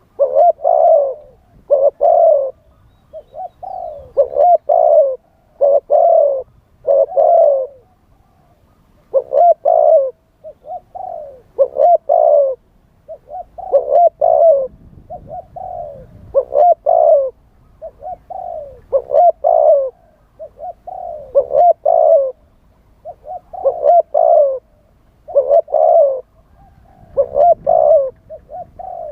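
Spotted dove cooing over and over, short phrases of a few coos each following one another with barely a pause: the calls of a decoy dove used to lure wild spotted doves.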